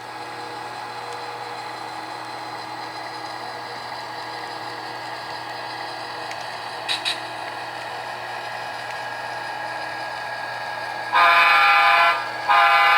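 HO-scale model diesel locomotive's sound decoder running its engine sound steadily, then sounding its multi-tone horn twice near the end.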